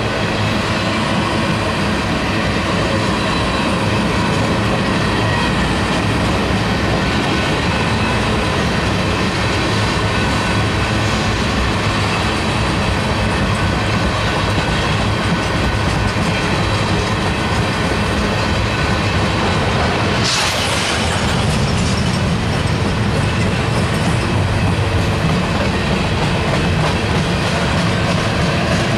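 Freight cars rolling past at close range: the steady noise of steel wheels running on the rails. A brief high burst of noise stands out about two-thirds of the way through.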